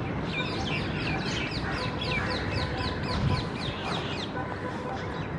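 A bird calling in a rapid run of short, high, falling notes, about five a second, for about four seconds, over a steady low outdoor background noise. A brief low thump about three seconds in.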